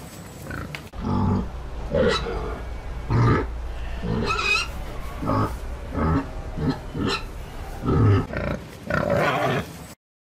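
Domestic pig grunting, a quick string of short calls with a few higher-pitched ones among them, over a steady low background rumble; it cuts off suddenly near the end.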